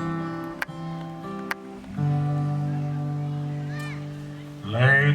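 Live western band playing a song's introduction: acoustic guitar plucks over long held chords. Near the end, male voices in harmony begin singing.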